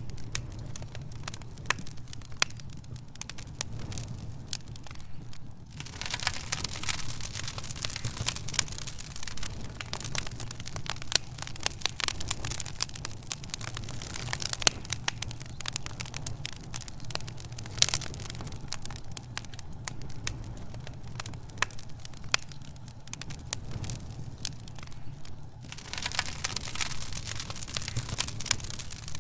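Wood fire crackling, with many irregular sharp pops and snaps over a hiss and a steady low rumble. The hiss grows abruptly louder about six seconds in and again near the end.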